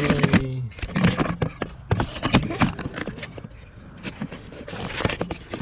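Irregular clicks, knocks and rustling of hands and tools handling parts in a truck's engine bay, denser in the first couple of seconds.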